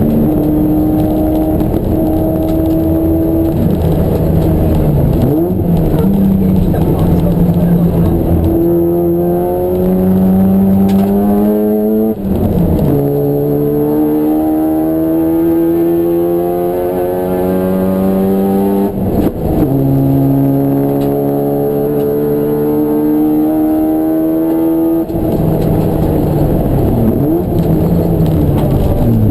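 Race car engine pulling hard through the gears. Its pitch climbs steadily, drops sharply at an upshift about twelve seconds in and again about nineteen seconds in, then climbs once more before it falls away near the end as the driver lifts off.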